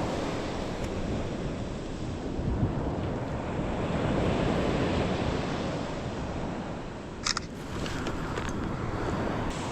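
Ocean surf washing on the beach, swelling and ebbing, with wind buffeting the microphone. A short sharp click about seven seconds in.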